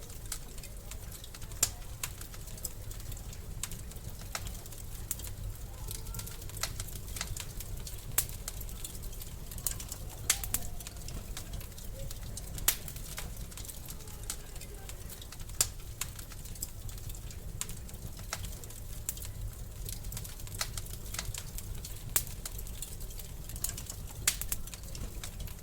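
Wood fire crackling in a fireplace: irregular sharp pops, a handful of them louder, over a steady low rumble of the burning.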